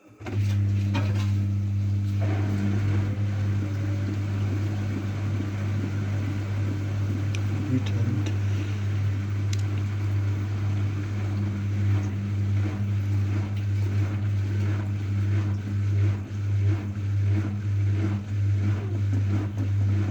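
AEG washing machine's drain pump running: a steady low hum with a noisy rush and small clicks over it, switching on abruptly about half a second in, as the water is pumped out between the prewash and the spin.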